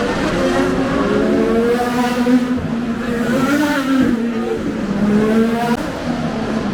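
Race car engines running on a street circuit: several engine notes overlap, rising and falling as the cars accelerate and shift.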